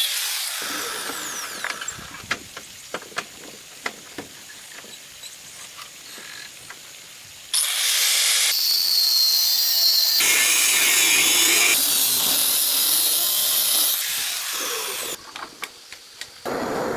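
A power tool runs in loud stretches that start and stop abruptly, about a third of the way in and again near the end. In between are quieter stretches of light clicks and taps.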